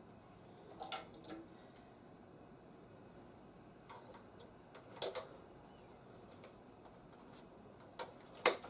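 Scattered clicks and taps of plastic toy parts being handled and snapped onto a toy helicopter: about half a dozen sharp clicks spread out, the loudest near the end.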